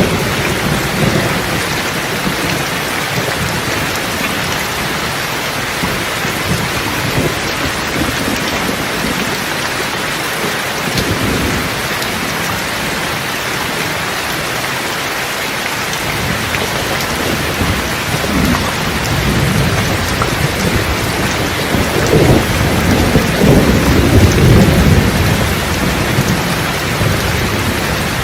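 Steady rain with rolling thunder. Low rumbles sound at the start, die away for a while, then build again past the middle and are loudest a few seconds before the end.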